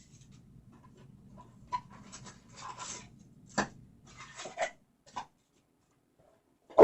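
Trading card packs and cards being handled: scattered rustles, scrapes and soft clicks, with a sharper snap near the end.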